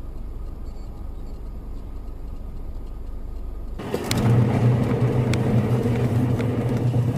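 Car running on the road, picked up inside the cabin: a low road rumble, then about four seconds in a louder, steady low engine drone with a few light clicks.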